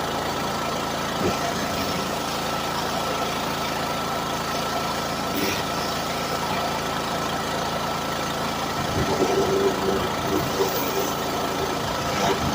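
Pressure washer running steadily: a motor hum under the even hiss of the high-pressure spray, briefly louder and more uneven about nine seconds in.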